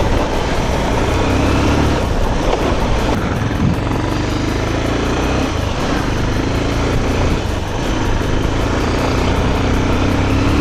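Motorcycle engine running at a steady speed under way, with wind and road rush over it.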